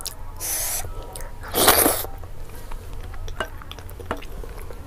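Close-miked chewing and wet mouth sounds of someone eating curry and rice by hand, with small clicks and two short hissing bursts, the louder one about one and a half seconds in.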